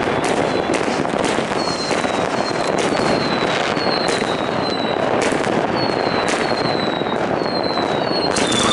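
Fireworks barrage: continuous dense crackling with many overlapping bangs, and short high whistles falling in pitch every half second or so.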